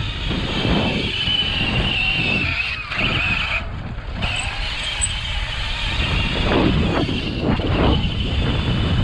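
Vehicles running at a dirt track, with a wavering high whine that drops away about three and a half seconds in and returns later, over heavy wind rumble on the microphone.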